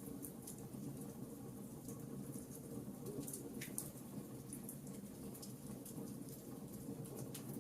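Campfire crackling: wood burning with many small, irregular pops and snaps over a steady low rumble, with one sharper pop about three and a half seconds in.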